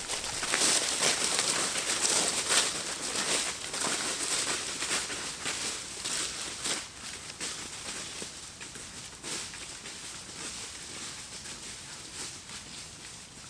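Dry leaf litter rustling and crunching in a dense run of small crackles, loudest over the first few seconds and then fading.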